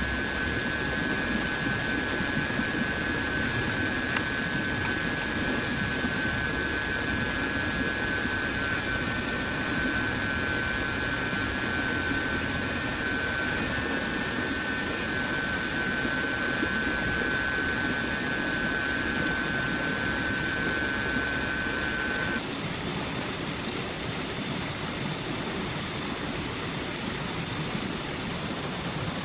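Insects chirping steadily: a fast, high pulsing trill alongside a lower, steady buzz that cuts off suddenly about three-quarters of the way through, over an even hiss.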